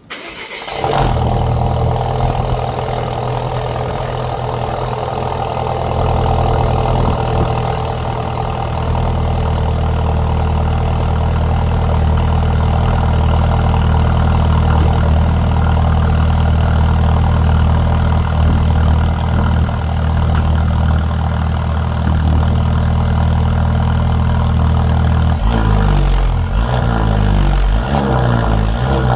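Volvo V60 engine cold-started: it cranks briefly, catches, and settles into a steady idle. A few seconds before the end the engine note starts to rise and fall.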